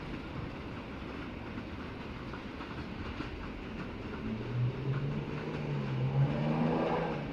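A diesel train running on the rails, its wheels clicking and rumbling; a low engine hum swells from about four seconds in, is loudest around six seconds, and eases near the end.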